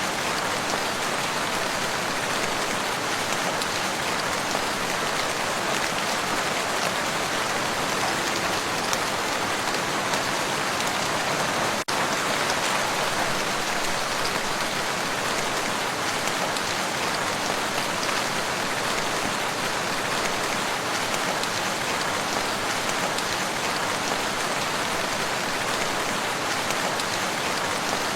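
Steady rain falling on a lake surface, an even hiss of many drops, with a momentary break in the sound about twelve seconds in.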